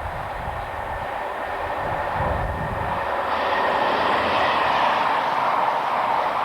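Fast train approaching at speed on the main line: a rush of wheel and air noise that swells louder from about three seconds in, with a faint steady whine above it. Wind buffets the microphone in the first few seconds.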